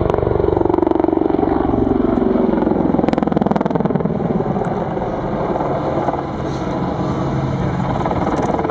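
Boeing AH-64 Apache attack helicopter's twin turboshaft engines and rotor, loud and steady, with fast rhythmic blade slap. A tone falls in pitch over the first few seconds as the helicopter flies a display manoeuvre.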